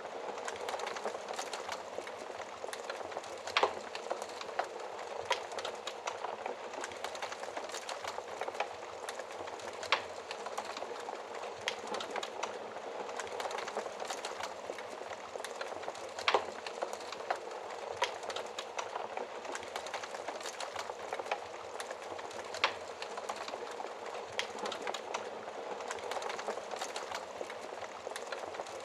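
Wood fire crackling steadily, with a constant hiss of small crackles and a few sharp, louder pops at irregular moments.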